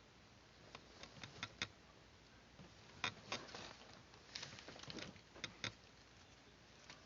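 Scattered light clicks and short rustles from hands working with paper and small craft tools. There is a quick run of clicks about a second in, and a busier patch of clicks and rustling in the middle.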